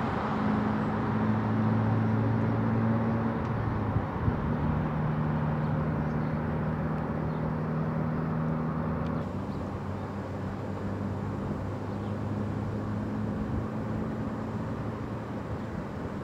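Vehicle engines idling, a steady low hum over a bed of outdoor noise; the pitch of the hum shifts about four seconds in and again about nine seconds in.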